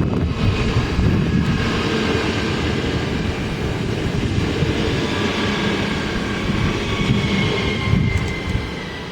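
Train running past with a steady low rumble and a high whine; the whine falls slightly in pitch toward the end.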